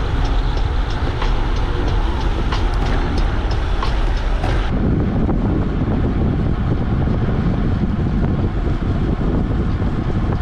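Wind noise buffeting a GoPro Hero 8's built-in microphone while riding: a loud, heavy rumble with light ticking over it. About halfway through, the hiss above thins out and the low rumble gets stronger.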